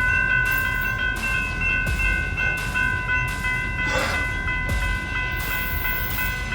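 CapMetro MetroRail commuter train running, a low rumble under a steady high-pitched whine of several tones, with a brief extra noise about four seconds in.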